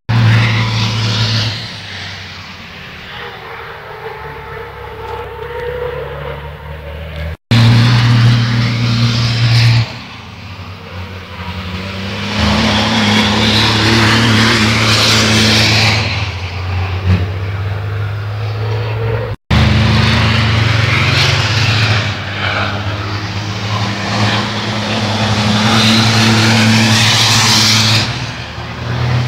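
Racing trucks' engines on a race circuit, with several trucks passing, each pass swelling and fading away. The sound cuts off abruptly twice and resumes.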